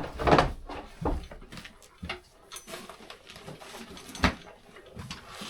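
Scattered light knocks and rustles from gear being handled and set up, with one sharper knock about four seconds in.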